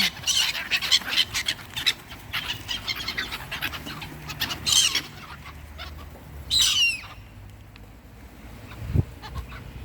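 Small birds chirping: many quick, high chirps, with two louder calls that slide downward in pitch, about five and seven seconds in.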